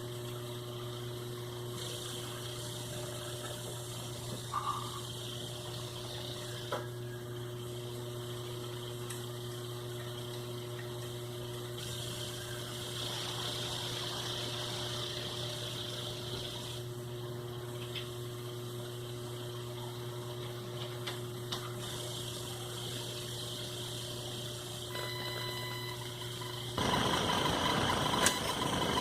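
Sewing machine's electric motor running with a steady hum and a few light clicks; near the end it gets louder and rougher.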